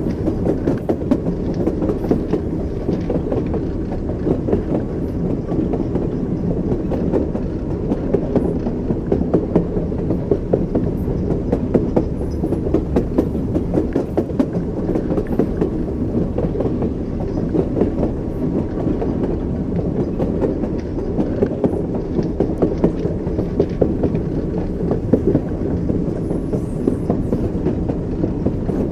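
Train wheels clacking over rail joints: repeated short clicks over a steady low rumble of a train in motion.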